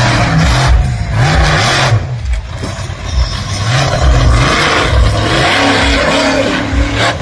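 Monster truck engine revving hard, its pitch swinging up and down many times in quick succession.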